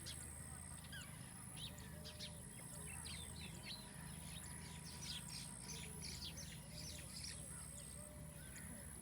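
Several small birds chirping in short, quick notes, busiest in the middle, over a steady low hum.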